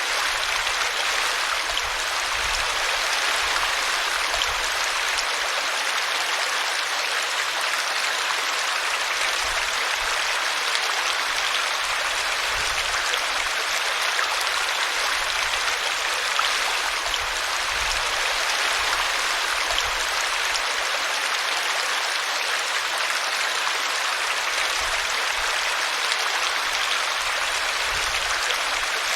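A small brook running over a tree root: a steady, unbroken rush of splashing water.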